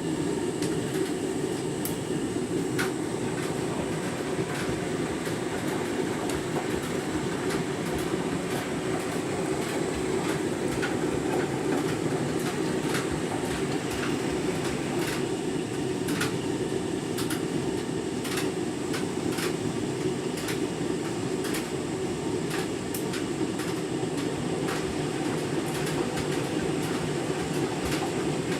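Candy washing machine running during its deep rinse: a steady mechanical rumble that starts suddenly, with scattered sharp clicks over it and a thin high whine.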